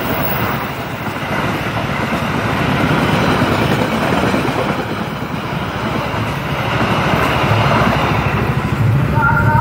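Sawunggalih passenger train's coaches rolling past, a steady rumble and clatter of steel wheels on rail.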